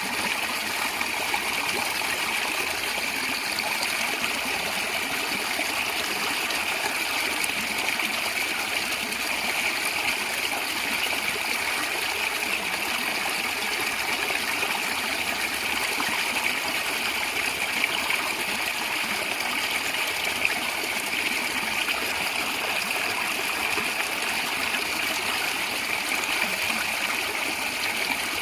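A stream of water flowing and gurgling steadily over stones, an even rushing with a bright trickling edge.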